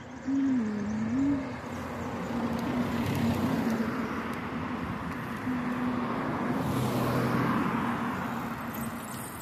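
Car engine running with a wavering, then steady, engine note, while road noise swells about two-thirds through as a vehicle goes by.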